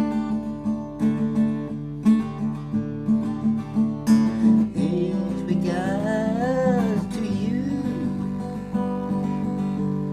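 Acoustic guitar strummed in a steady rhythm, with a wordless voice singing a long, wavering, gliding note about halfway through.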